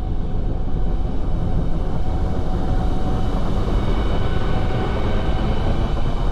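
Loud, steady low rumble with several held high tones over it.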